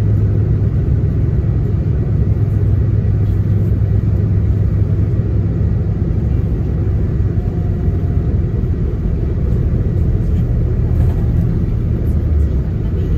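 Coach bus engine and running noise heard from inside the cabin: a steady low drone whose pitch shifts about three-quarters of the way through.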